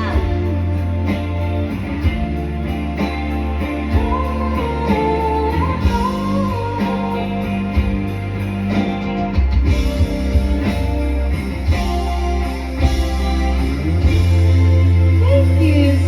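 Live band playing a song: a singer over guitar, steady bass notes and drums with a regular cymbal tick.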